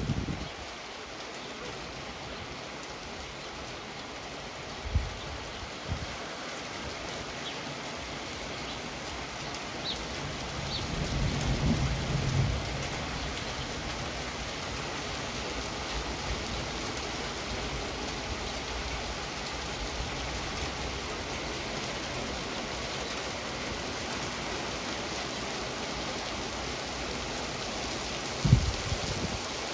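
Steady rain during a thunderstorm, with a low rumble of thunder that swells and fades about ten to thirteen seconds in. A few short, sharp low thumps break through, the loudest near the end.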